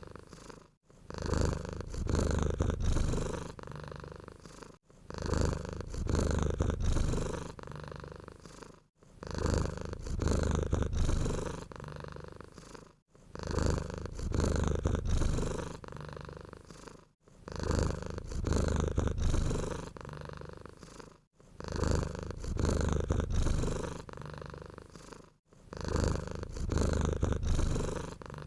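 Domestic cat purring, a low rumbling purr that swells and fades in even cycles about every four seconds, with a short break between cycles.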